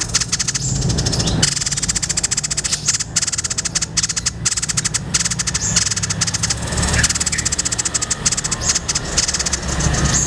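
White-breasted babbler (tepus dada putih) giving a long, fast rattling chatter of sharp notes, many to the second, over a steady low hum.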